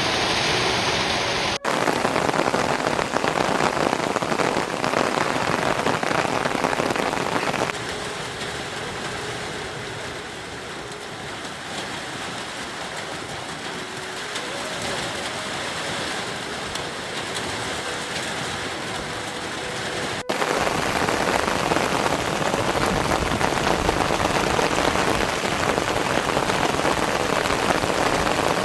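Steady rain falling, a dense even hiss. It drops quieter about eight seconds in and comes back louder with a sudden cut about twenty seconds in.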